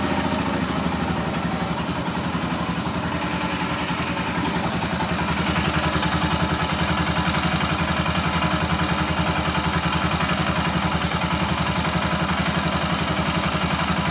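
Royal Enfield Himalayan's single-cylinder engine idling with a steady, even beat, with rocker (tappet) noise from the valve gear: a loose rocker adjustment that needs the valve clearance set.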